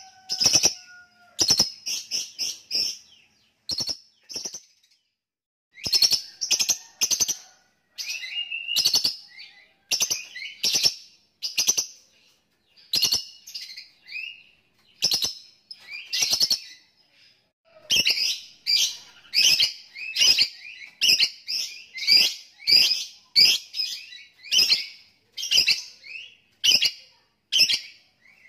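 Lovebird calling in a long run of short, sharp, high chirps, one or two a second, the rapid chattering 'ngekek' and ticking 'ngetik' calls kept lovebirds give. A brief pause comes about five seconds in, and the chirps come thicker and more regularly in the second half.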